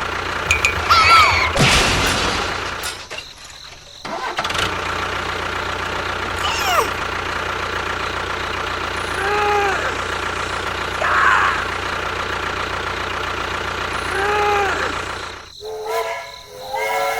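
An engine running steadily, overlaid with several short sliding whistle-like tones and brief pitched calls.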